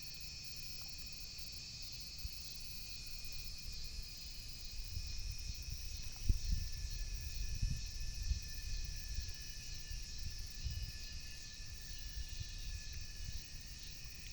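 Steady high-pitched trilling of an insect chorus. A low rumble swells under it in the middle seconds.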